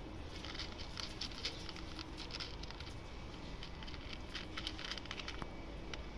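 Kitten eating dry cat food: faint, irregular crunching clicks, thickest in the first half.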